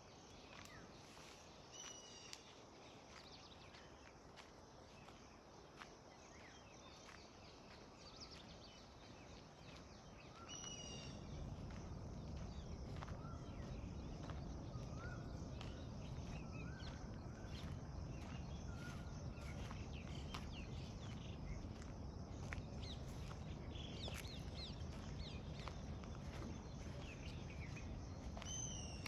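Outdoor ambience with scattered short bird calls. About ten seconds in, a steady low rushing noise comes up and stays.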